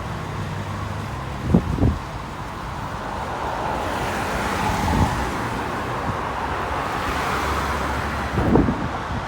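Road traffic: a motor vehicle passes, its tyre and engine noise swelling to a peak mid-way and fading, over a steady low engine rumble. A few brief low thumps come near the start and near the end.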